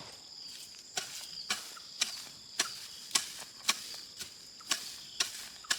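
A regular series of sharp knocks, about two a second, over a steady high-pitched insect drone.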